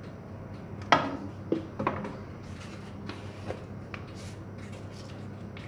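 Utensil knocking and scraping against a mixing bowl as ingredients are added and stirred: three sharp knocks about one to two seconds in, then lighter taps. A steady low hum runs underneath.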